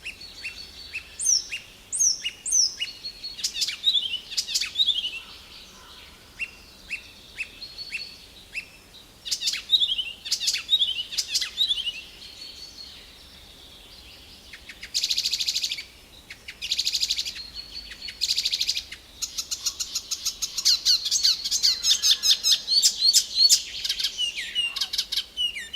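Several small songbirds singing together: high chirps and quick falling trills, a few rapid buzzy trills of about a second each in the middle, then a dense run of repeated chirps near the end.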